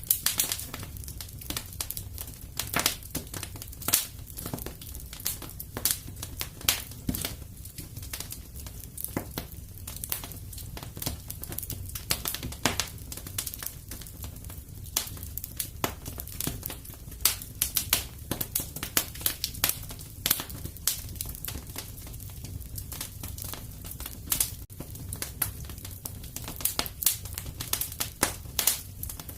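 Wood fire crackling, with frequent sharp irregular pops and snaps over a low steady rumble of burning logs.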